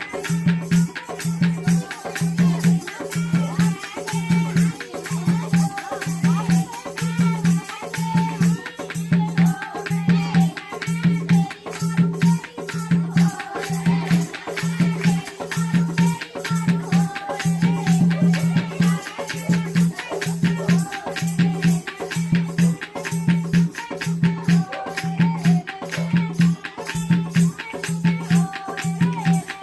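Jakdi folk music: a steady low drum beat about one and a half times a second, with constant jingling rattle-type percussion and a wavering melodic line above.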